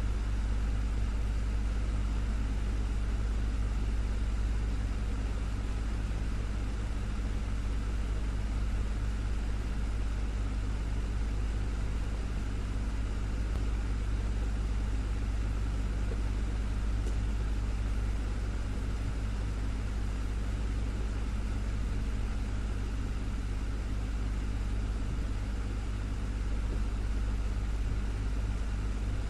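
Desktop fan running steadily, a constant low hum with a whir of air over it.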